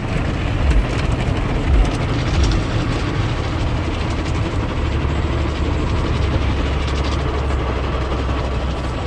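Automatic car wash running, heard from inside the car: a steady rush of spray and machinery noise, with a few low thumps in the first seconds and a steady low rumble setting in about halfway through.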